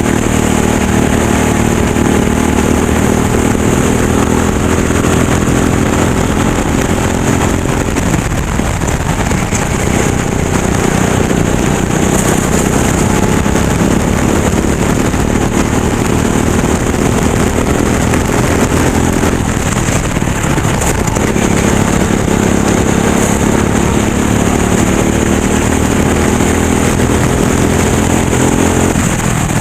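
Kart engine heard onboard, running at high revs, with its pitch dropping three times as the driver lifts off for corners (about eight seconds in, about twenty seconds in, and near the end) and climbing again as it pulls out of each.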